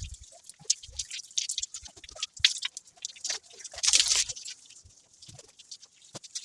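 Hand scrubbing while cleaning out a refrigerator: irregular rubbing and scraping with light knocks, busiest about four seconds in.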